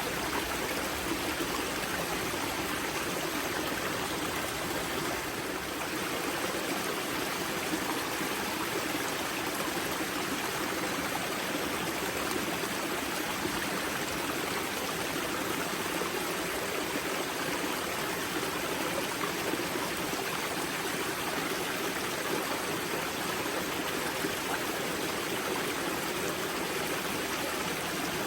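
Steady rushing and burbling of water flowing from a river's spring source over stones, like a small stream or cascade.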